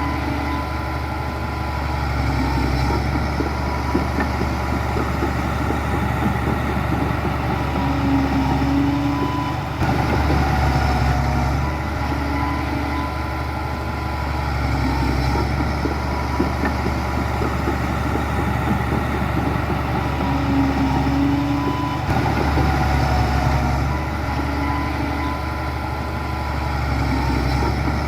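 Diesel engine of heavy earthmoving machinery running steadily, its loudness rising and falling a little as the load changes.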